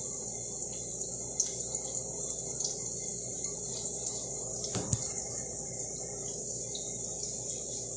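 Food frying in a pan: a steady sizzle with a few faint ticks and a single knock about five seconds in.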